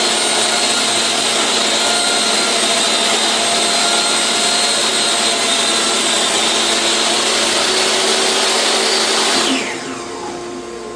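A 10-inch job site table saw with a Diablo blade running loud and steady while cutting 1/8-inch plexiglass, then switched off about nine and a half seconds in, its pitch falling as the blade winds down. A quieter steady hum remains near the end.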